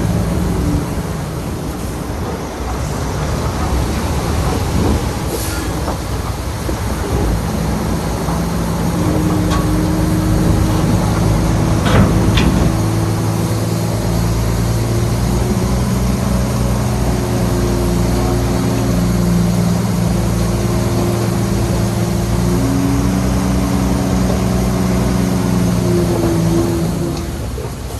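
Shantui bulldozer's diesel engine running steadily, its note shifting up and down as it works, with a couple of sharp metallic clanks about 12 seconds in.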